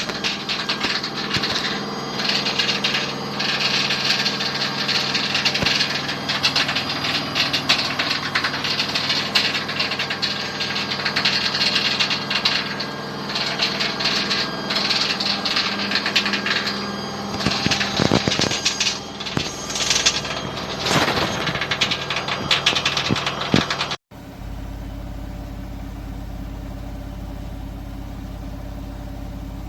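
Candy RapidO washing machine running with an exaggerated noise from inside, an uneven scraping and rattling over a steady hum, which the owner puts down to something rubbing or out of adjustment. About 24 s in the sound cuts abruptly to a steadier low hum.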